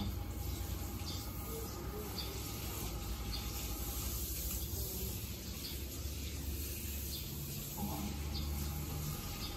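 Outdoor ambience: short, high bird chirps repeating every second or two over a steady low rumble.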